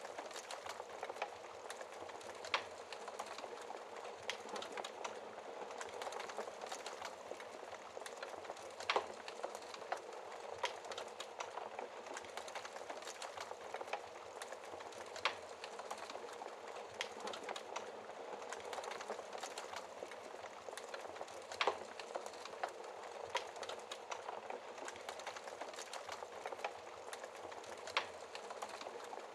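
Wood fire crackling in a fireplace: a steady soft hiss with frequent irregular pops and snaps, a few of them sharper and louder.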